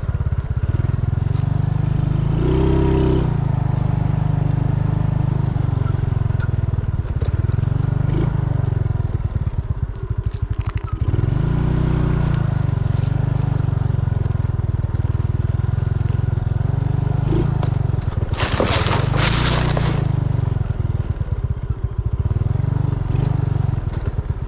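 Motorcycle engine running steadily as it is ridden, with a brief loud hiss about three-quarters of the way through.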